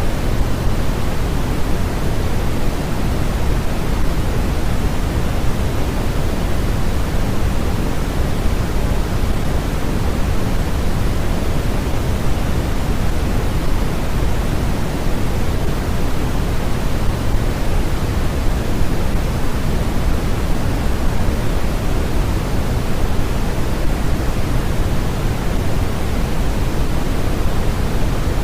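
Steady, unchanging synthetic noise of the kind played for sleep or focus, a continuous hiss weighted toward the low end like pink noise rather than flat white noise.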